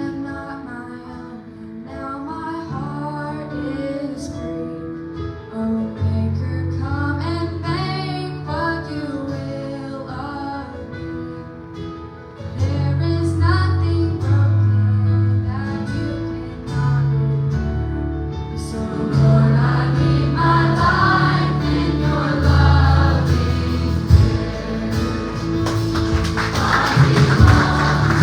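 Live gospel worship music: singing over guitar and a steady bass line, the sound growing fuller and louder about two-thirds of the way through.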